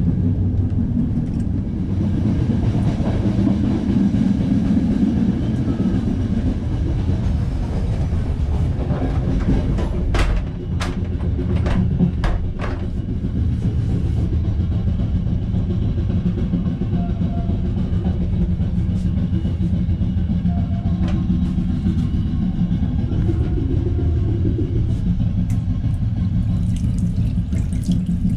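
Steady rumble of a moving passenger train heard from inside the coach, wheels running on the rails, with a handful of sharp clicks and knocks about ten to thirteen seconds in.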